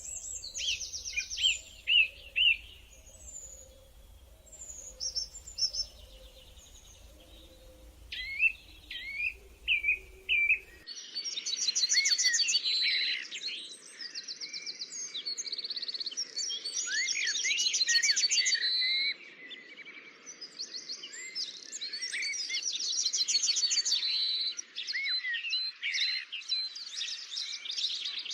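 Several birds singing together: rapid trills mixed with short rising and falling chirps and whistles. About eleven seconds in, a faint low hum stops and the chorus becomes denser and louder.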